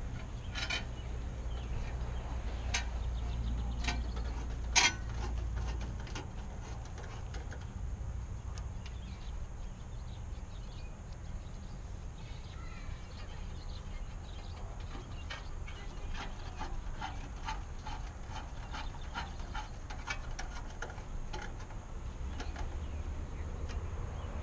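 Scattered small metallic clicks and taps of hand tools on the headlight mounting bolts, with one sharper click about five seconds in and quick runs of faint clicks in the second half, over a steady low rumble.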